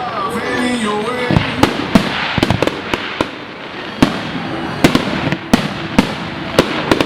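Fireworks display: a rapid, irregular series of sharp bangs from bursting shells, with a stretch of crackling near the middle.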